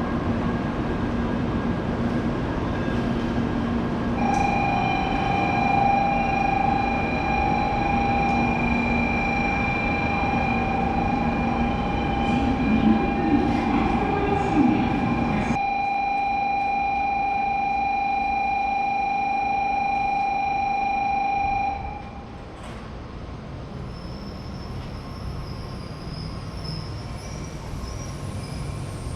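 Shinkansen train at a station platform, a loud steady rumble with a steady high-pitched tone over it. The rumble cuts off abruptly about halfway through, and the tone and overall level drop away a few seconds later.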